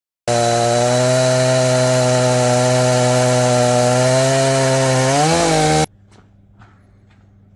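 A small engine running loud and steady at one speed, with a brief dip and rise in pitch near the end; it starts and cuts off abruptly.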